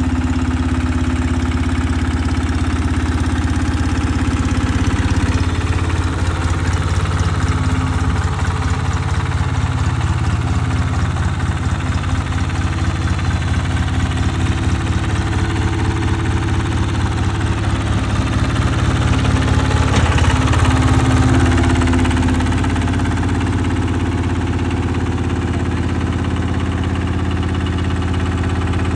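Captain mini tractor's diesel engine running steadily, its level pulsing through the middle stretch and swelling louder for a couple of seconds about twenty seconds in.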